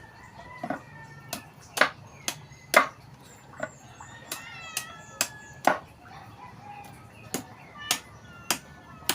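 Irregular, sharp chopping strikes of a blade, most likely a bolo hacking open a young coconut (buko), about one or two blows a second with several louder ones. Birds chirp in the background.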